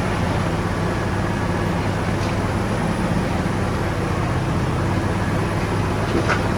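Heavy earthmoving machinery's diesel engine running steadily, a low drone, with a couple of faint brief high squeaks.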